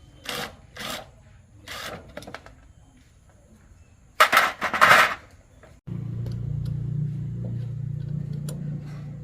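A few short knocks and a louder rattling burst, then a motor starts abruptly about six seconds in and runs steadily with a low hum.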